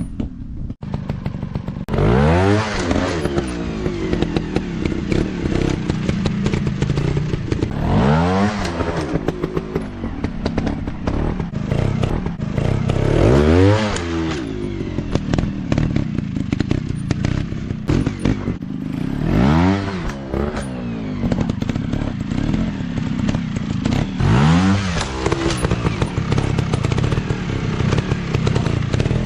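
Trail bikes' single-cylinder four-stroke engines revving up and falling back in repeated surges, about every five to six seconds, as the bikes ride on and off the throttle.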